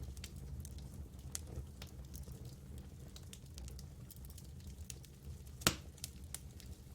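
Wood campfire crackling: scattered small snaps over a steady low rumble, with one louder pop near the end.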